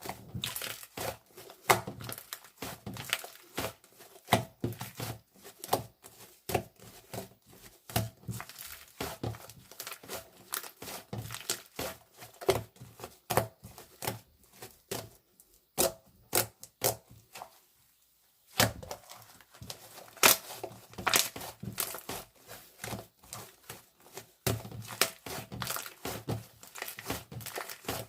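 Crinkly material being crumpled and torn, with many quick clicks and taps, pausing briefly about eighteen seconds in.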